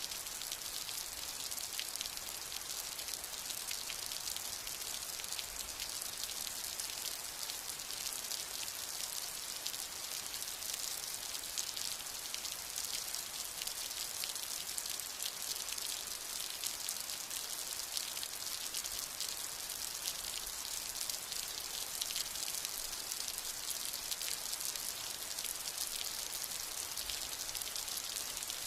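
Steady summer rain falling, a dense patter of many small drops over an even hiss, with no thunder.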